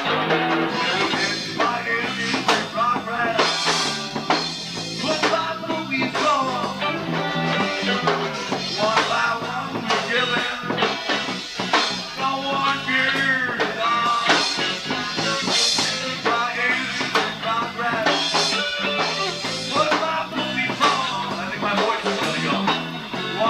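A rock band playing live: guitar, bass guitar and drums in a full, steady groove.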